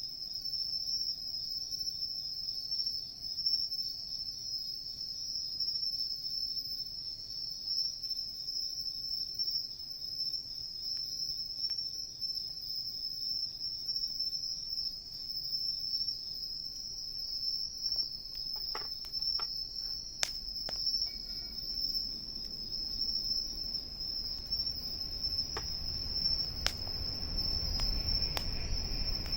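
Insects singing in a steady, unbroken high trill. From about two-thirds of the way in, the wood fire crackles with sharp scattered pops, and a low rumble rises near the end.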